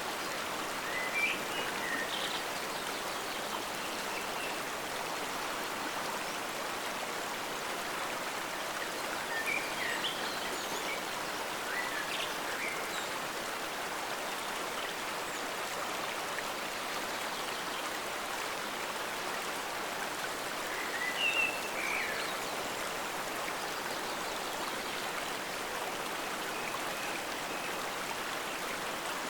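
Forest stream flowing steadily, an even rushing of water, with a few brief high chirps from birds near the start, around ten seconds in and about two-thirds of the way through.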